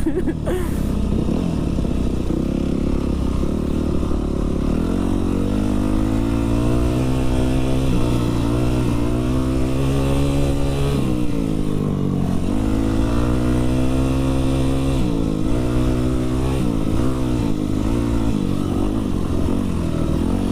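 Dirt bike engine running under way off-road, heard close to the microphone. The revs climb and drop repeatedly with throttle and gear changes, with a sharp dip about halfway through and several quick dips in the later part.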